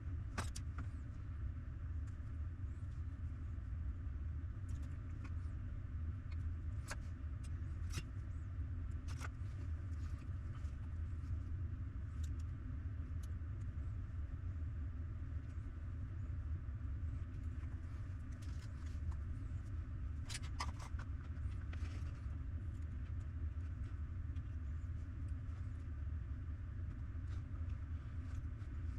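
A steady low rumble with a few short, light clicks and taps scattered across it.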